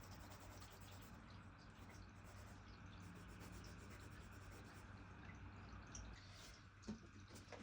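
Near silence with the faint scratching of a drawing tool on paper as colour is put down, and one light tap near the end.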